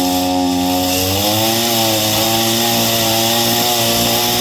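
Gasoline chainsaw running loud and steady, its engine pitch sagging slightly early on and then recovering, as it cuts through a tree limb.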